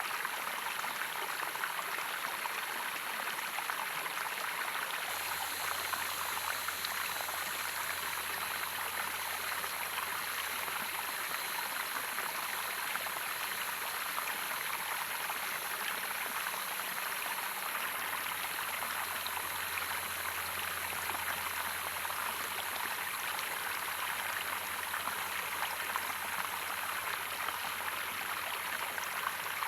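Waterfall running steadily: an even, unbroken rush of falling and flowing water.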